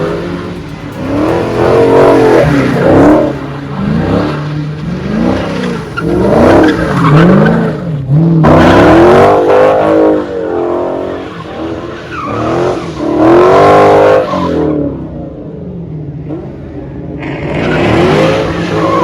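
A car's engine revving up and down over and over while its tires squeal, with a brief lull about three quarters of the way through.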